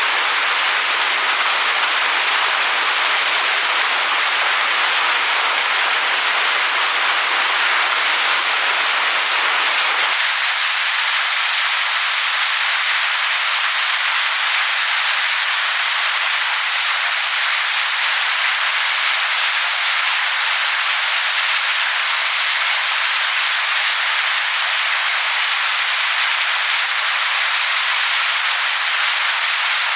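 Waterfall splashing onto stones: a steady, dense rush of water. About ten seconds in, its lower rumble drops away, leaving a thinner hiss.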